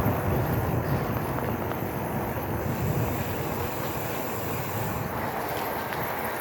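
Wind buffeting the phone microphone of a rider on a moving e-bike, a steady rumbling noise with no clear tone.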